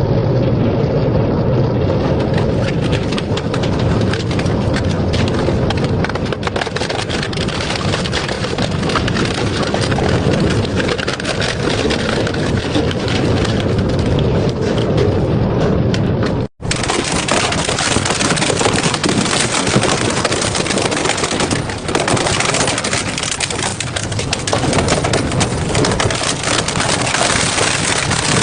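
Double-shaft shredder tearing through metal scrap: a loud, dense run of crunches and cracks that keeps up without pause, apart from a split-second break about sixteen seconds in.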